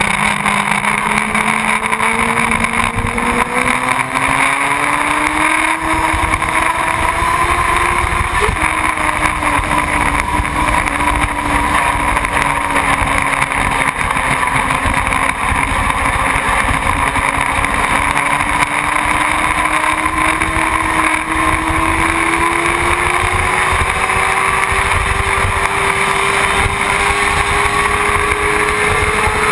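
Motorcycle engine running under way, its pitch climbing, then dropping sharply about eight seconds in as it shifts up, then climbing slowly again. A steady rush of wind noise runs under the engine.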